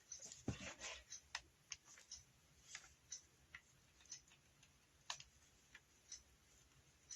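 Faint, irregular clicks and taps of hands working with craft materials, busiest in the first second.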